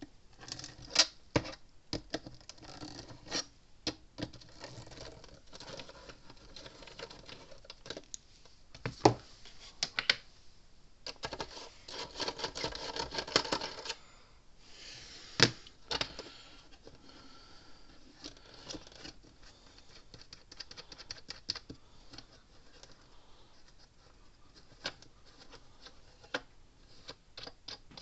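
Irregular clicks, knocks and clatter of small metal hardware and hand tools being handled, as the fence charger's arc-blackened terminal nut is worked loose, with a denser stretch of rattling about halfway through.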